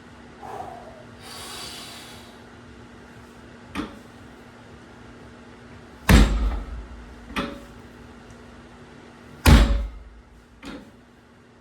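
Loaded trap bar set down on the floor between deadlift reps: heavy, deep thuds about three and a half seconds apart, each followed by a lighter knock as the plates settle.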